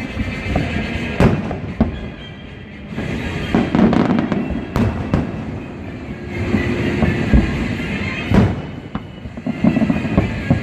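Fireworks going off: a dense run of bangs and booms over a continuous rumble, the sharpest bangs about a second in and again about two-thirds of the way through.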